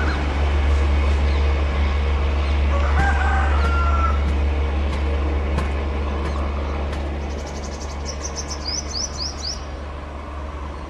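Low rumble of a departing LHB passenger train, slowly fading as it moves away. Birds chirp over it: a short whistled call about three seconds in and a quick run of high chirps near the end.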